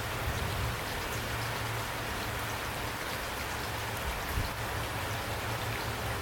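Steady rain falling: an even hiss with scattered drops ticking through it, and a low rumble underneath.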